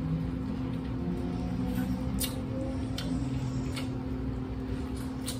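Close-up mouth sounds of biting and chewing corn on the cob: a handful of sharp, scattered clicks as kernels are bitten off, over a steady low hum.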